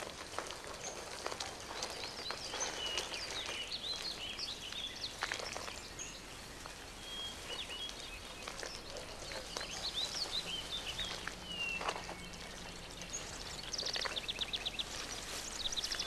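Outdoor ambience of scattered songbird chirps and whistles over a soft hiss, with a rapid trill of quickly repeated high notes near the end.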